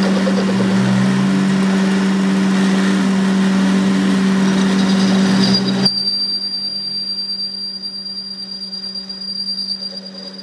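Workshop machine motor running with a steady hum and a loud noisy rush. The rush stops abruptly about six seconds in, leaving a fainter hum and a thin high whine.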